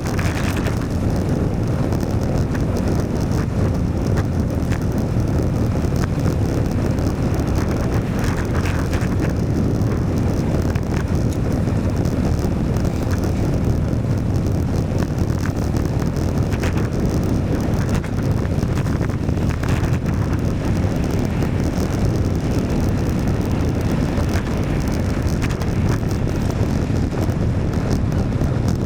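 Steady rush of wind on the microphone while cycling, over road and traffic noise.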